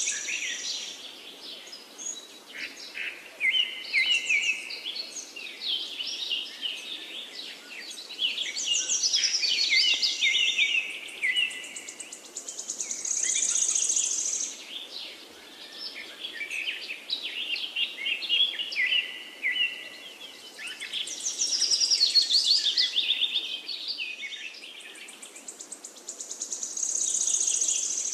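Birds chirping and trilling, many quick notes overlapping, with a high, buzzy trill that comes back about every 14 seconds.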